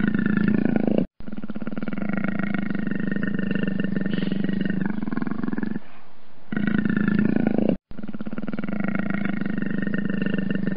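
Leopard growling: long, rasping growls with a short pause in the middle, broken twice by an abrupt cut to silence about a second in and again near the end.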